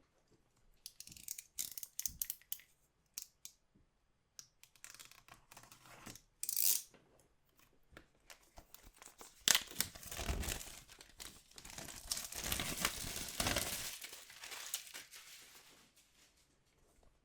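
Plastic wrapping on a box of anime trading cards being torn and crinkled by hand. It starts as scattered crackles with a sharp rip about six seconds in, then turns into a long, continuous tearing and crumpling from about nine seconds in before it dies down.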